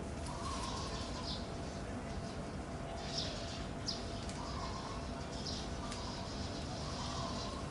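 Birds chirping: a few short, high chirps scattered over a steady background hiss, with fainter wavering calls in between.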